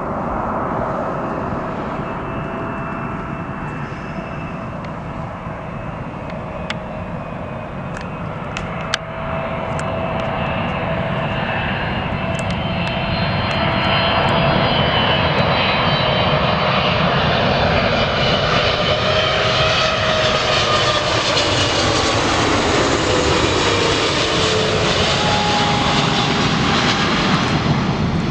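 Jet airliner's engines passing close by: the engine noise grows louder through the first half, and its whining tones then slide down in pitch as the plane goes past.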